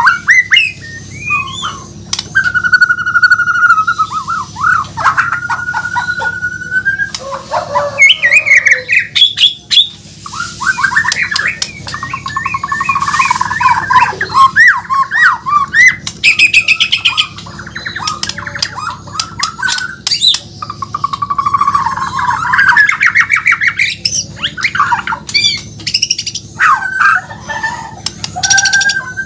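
A white-rumped shama (murai batu, Borneo type) singing continuously: a varied run of clear whistles, fast trills, sliding notes and harsher chattering phrases with brief pauses between them. A low steady hum sits underneath.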